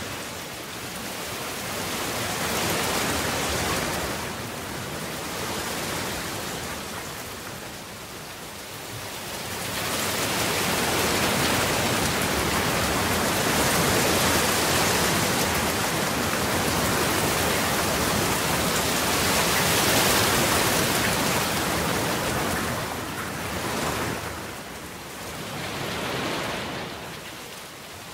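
Rain falling, a steady full hiss that swells in slow waves, loudest through the middle and easing off near the end.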